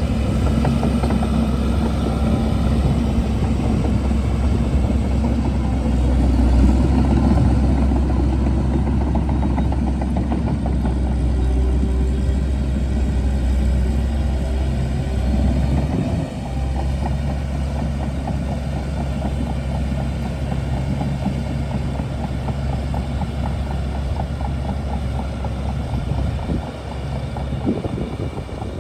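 Shantui DH17C2 bulldozer's diesel engine running steadily, with rattling over the engine hum. The sound drops briefly about halfway through and eases off near the end.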